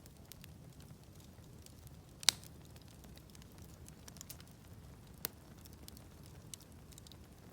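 Wood campfire crackling, with a sharp pop a little over two seconds in and a smaller one about five seconds in, over a steady low rumble.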